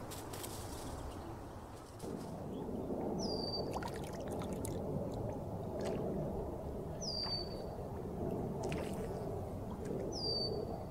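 A bird's short high call, three times about three and a half seconds apart: a whistle that drops in pitch and then holds briefly. Under it runs a steady low rushing noise that gets louder about two seconds in.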